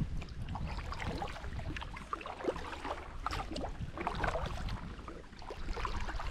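Canoe being paddled: water sounds from the paddle strokes, with a steady low wind rumble on the microphone and many short, scattered ticks and chirps.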